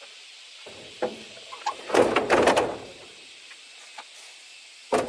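A quick run of knocks and scrapes, loudest about two seconds in, then a single sharp knock near the end.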